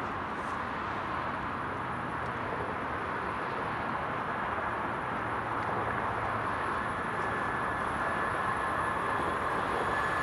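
An approaching train on an electrified main line, heard as a steady rushing noise that grows slowly louder, with a high ringing tone from the rails coming in near the end.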